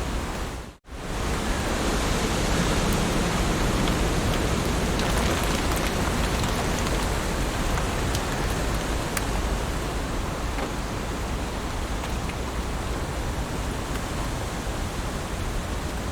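Heavy rain falling on leaves, a steady dense hiss with scattered drop ticks. About a second in it cuts out to near silence for a split second, then comes back.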